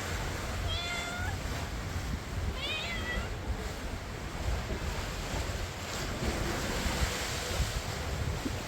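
Stray cat meowing twice, a short call about a second in and another near three seconds, over steady wind noise and sea surf.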